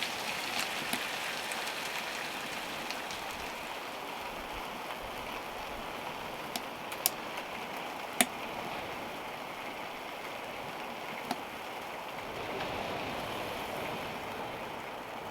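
Storm weather against the van: a steady rushing hiss with a few sharp ticks, the loudest about eight seconds in.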